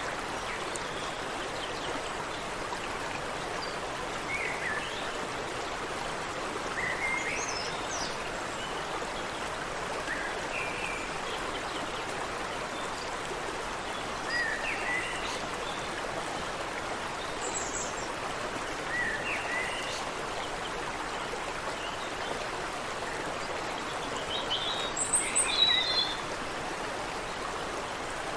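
Water running in a stream, a steady rush, with birds giving short chirping calls every few seconds and a busier, louder flurry of calls near the end.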